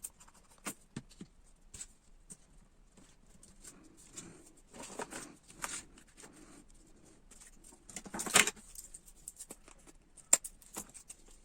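Cardboard craft pieces being handled and pressed together on a table: scattered light taps and clicks with short paper rustles, the loudest a brief rustle about eight seconds in.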